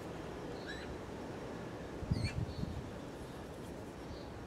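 Steady outdoor background hiss with a few short, high bird chirps scattered through, and a cluster of dull low thuds about two seconds in.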